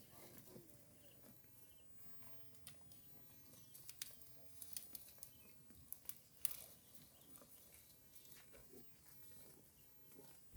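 Cows grazing, faint: irregular crisp snaps of grass being torn off and chewed.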